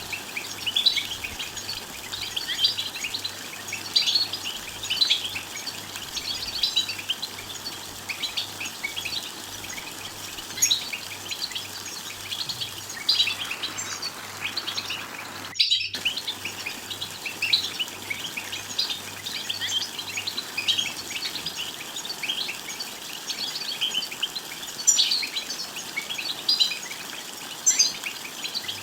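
European goldfinch twittering and singing: a continuous stream of quick, high chirps and trills, briefly cut off for a moment a little over halfway through.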